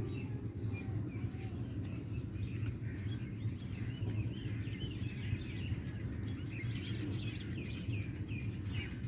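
Small birds chirping repeatedly, more often from about three seconds in, over a steady low rumble.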